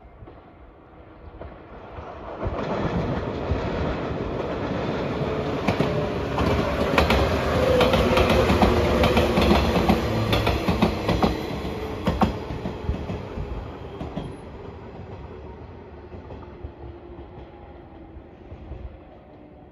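A yellow JR 115-series electric local train passing: its rumble builds up, peaks with a quick run of wheel clacks over the rail joints, then fades away as the train moves off.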